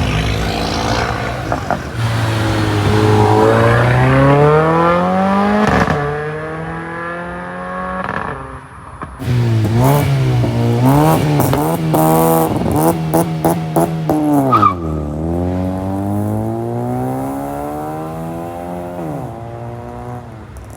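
Tuned car engine accelerating hard, its pitch climbing and then dropping at each gear change. In the middle come quick blips of the throttle with a run of exhaust pops and crackles, then another long climb in pitch that drops near the end.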